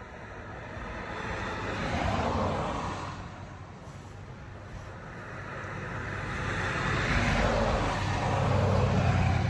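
Road traffic: a vehicle passes about two seconds in and fades away, then another builds up louder through the second half, with a low engine hum coming in near the end.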